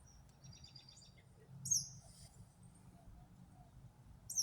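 High, thin bird calls: a quick run of short notes, then two sharp falling calls, one about two seconds in and one near the end.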